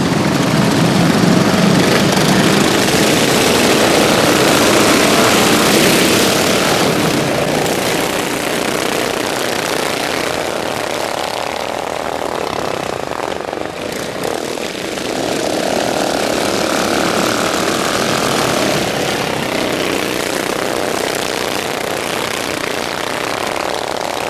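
Racing lawnmowers with stock single-cylinder overhead-valve engines running at high revs, their engine sound swelling and fading as the mowers pass.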